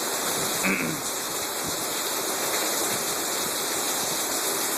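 Heavy thunderstorm downpour: a steady rushing hiss of hard rain, driven by wind.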